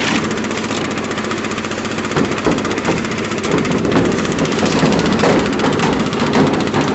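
Engine-driven construction machinery running steadily, with a fast, even chatter.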